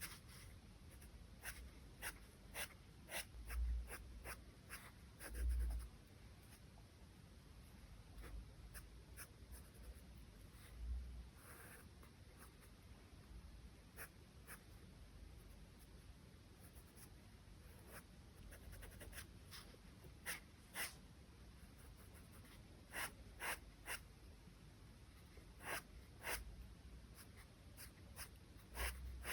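Charcoal pencil working on paper in short, quick strokes, making scattered faint scratches and ticks, with a few low thumps.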